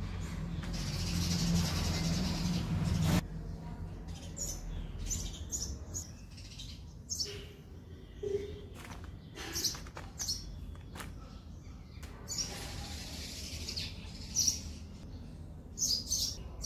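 Small birds chirping in short, scattered high calls. For the first three seconds a steady hiss runs under them and cuts off suddenly.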